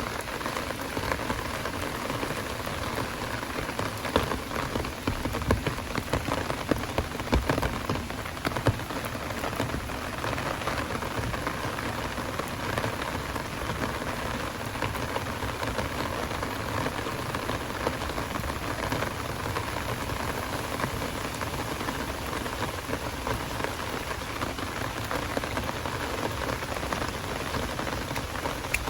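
Heavy downpour rain falling steadily in a dense patter, with a run of louder, sharper drop hits between about four and nine seconds in.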